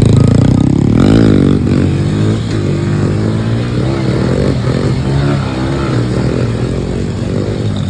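Pit bike engine revving while riding. The pitch climbs about a second in, then keeps rising and falling as the throttle opens and closes.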